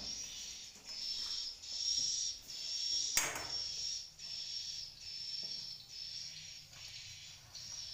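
Edible-nest swiftlet chirping, a high twittering call that repeats regularly a little more than once a second. A single sharp knock comes about three seconds in.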